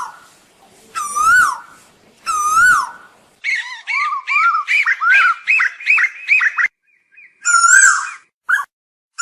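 Asian koel calling: two separate swooping whistled notes, then a quick run of about a dozen shorter, up-and-down notes, and a few more near the end.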